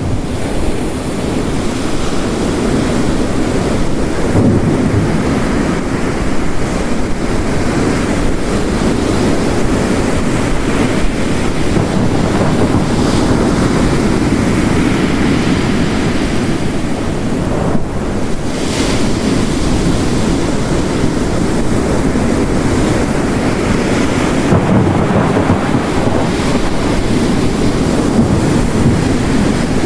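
Ocean waves crashing and washing on a rocky coast under heavy, steady rain, the surf swelling and easing every few seconds.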